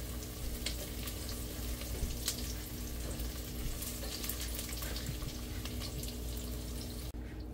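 Onion and garlic sizzling in hot oil in a pot, with a few light clicks and a steady hum underneath. The sizzle cuts off suddenly near the end.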